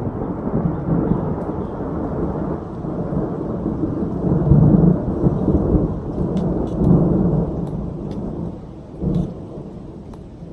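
A long roll of thunder: a deep rumble that swells about halfway through and again a couple of seconds later, then fades toward the end. Light rain patters under it.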